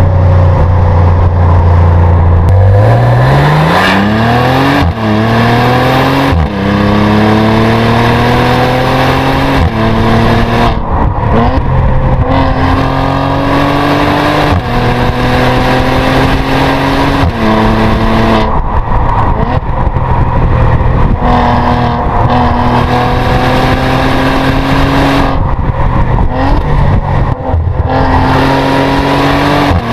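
Maserati Levante GranSport SQ4's 3.0-litre twin-turbo V6 driving under load. A steady low drone at first, then the engine note climbs steeply and keeps rising and dropping back as the car accelerates and shifts up through the gears several times.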